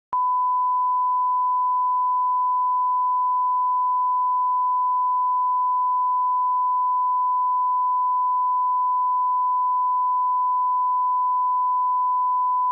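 Steady 1 kHz sine line-up tone at −18 dBFS, the reference level used for broadcast audio alignment, held at one pitch and one level throughout.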